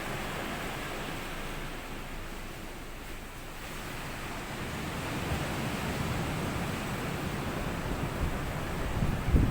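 Small sea waves washing up on a sandy beach. The surf eases off about three seconds in, then builds again and breaks near the end with low rumbling surges.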